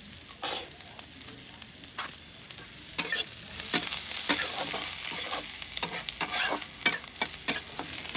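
Chopped onions, cumin and chillies sizzling in hot oil in a steel kadhai, with a steel spatula scraping and clinking against the pan as they are stirred. The stirring and sizzling get louder about three seconds in.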